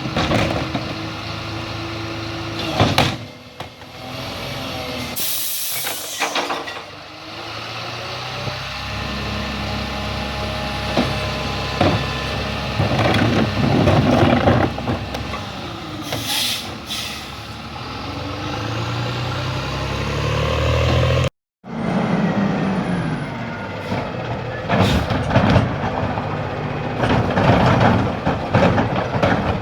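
Diesel garbage truck running while packing trash, its engine speeding up and slowing down, with sharp air-brake hisses about five seconds in and again around sixteen seconds. The sound breaks off for an instant late on, then more truck engine and clatter follows.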